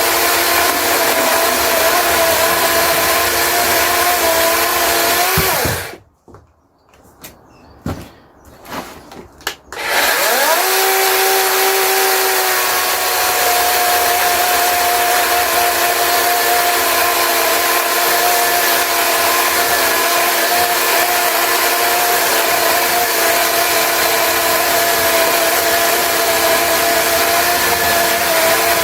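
DeWalt 18 V cordless chainsaw running steadily with an electric motor whine while cutting logs. It stops about six seconds in, a few light clicks follow, and about ten seconds in it starts again, its whine rising, and runs on.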